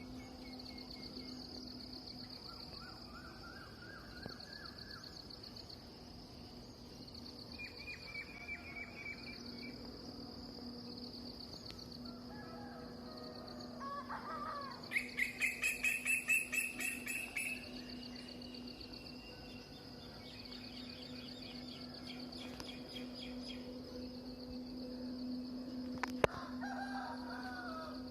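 Birds chirping and calling: scattered short phrases, with a loud, rapid series of repeated notes about halfway through. A steady, pulsing high buzz and a low hum run underneath, and a single sharp click comes near the end.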